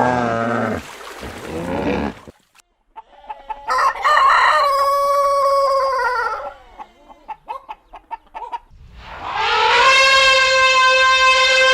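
A rooster crowing: one long crow, a run of short clucks, then a second crow that is still going at the end. A different short pitched animal call fades out in the first two seconds.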